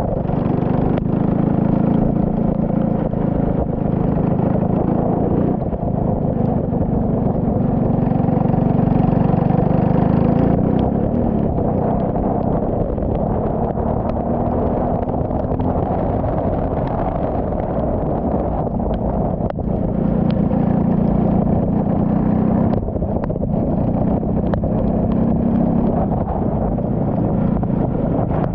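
Turbocharged Saab 9-3 race car engine running, its note mostly steady with a slow rise in pitch around the middle.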